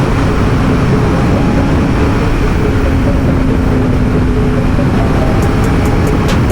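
Motorcycle engine running at a steady highway cruise under heavy wind rush on the rider's microphone, the engine note holding nearly steady and dropping slightly about three seconds in.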